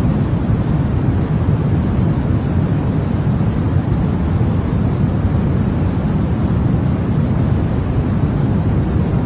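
Continuous white noise for baby sleep: a steady, unchanging rush, deepest and strongest at the low end.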